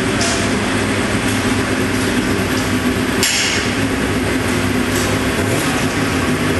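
Motorcycle engine running steadily, with a sharp click just after the start and a louder one about three seconds in.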